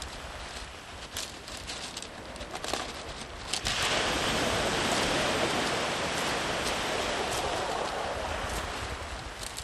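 Sea waves washing up a beach: a low hiss of surf, then a wave breaks loudly about a third of the way in and its wash runs on for several seconds before easing off.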